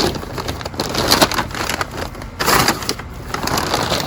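A bag rustling and crinkling as pumpkins are loaded into it for weighing, in irregular bursts, loudest about two and a half seconds in.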